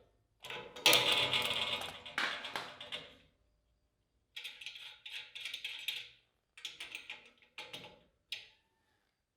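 Hands working metal plumbing parts: clinks, clicks and scrapes of the shut-off valves and fittings being handled and fitted, in several short bursts, the loudest about a second in.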